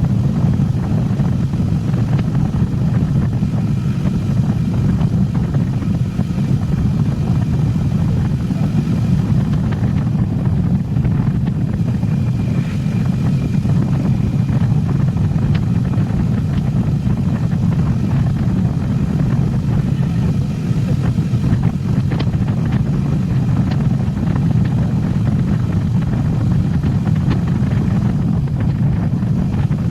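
Motorcycle on the move: a steady, loud rumble of engine and wind noise.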